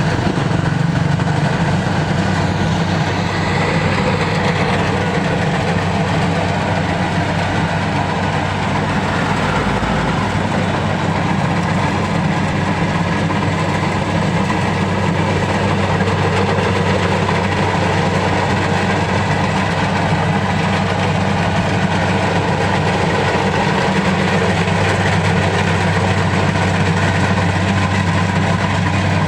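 A large engine running steadily and loudly, with a constant low hum and a busy mechanical rattle above it; the low hum grows a little stronger about three-quarters of the way through.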